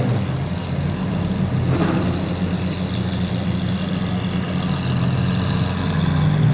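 Lamborghini engines idling steadily, a low even engine note with no revs.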